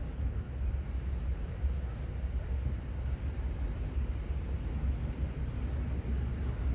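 Outdoor seaside ambience: a steady low rumble, with faint high chirps recurring about every second and a half.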